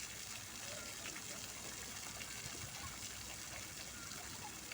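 Fountain water splashing and gushing in a steady, even rush.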